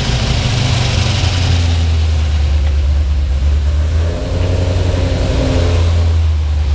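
Cammed 5th-generation Chevrolet Camaro SS V8 running loud and steady just after catching on its first start of a fresh engine install, with a slight dip about four seconds in.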